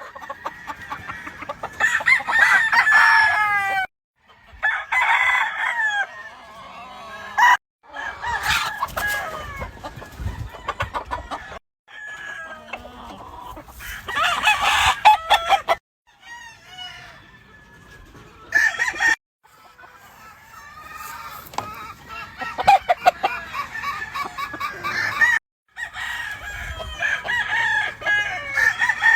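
Roosters crowing, with clucking between the crows, heard in short stretches that break off abruptly several times.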